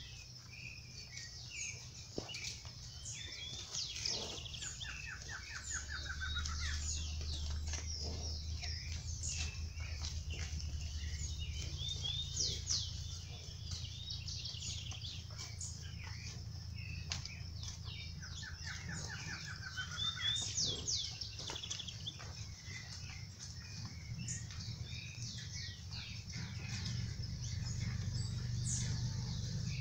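Several birds chirping and calling at once, with many short chirps throughout and a rapid trill that comes twice, a few seconds in and again about twenty seconds in, over a low steady rumble.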